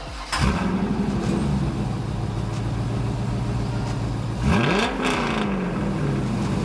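A C5 Corvette's 5.7-litre LS1 V8, on long-tube headers, X-pipe and the stock Corsa mufflers, fires up about half a second in. Its idle starts high and settles lower. About four and a half seconds in it gets one quick rev that climbs sharply and falls back to idle.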